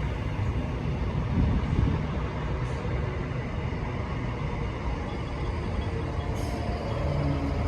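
Scotrail Class 320 electric multiple unit running at the platform: a steady low rumble of traction motors and wheels on the rails.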